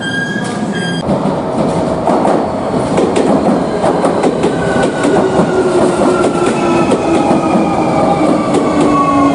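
Electric train running on rails, with wheels clicking over the rail joints and a motor whine that slowly falls in pitch over the last few seconds as the train slows. Violin music ends about a second in.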